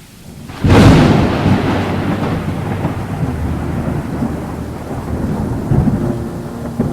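A thunderclap cracks suddenly about a second in, then rolls on as a long low rumble with smaller swells, over steady rain.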